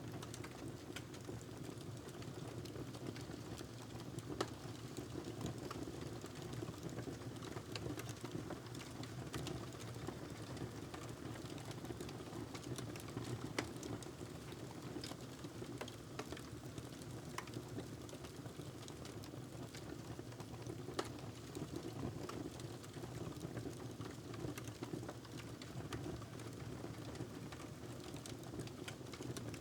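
Wood fire burning in a fireplace: irregular sharp crackles and pops, a few louder ones standing out, over a steady low rumble of the flames.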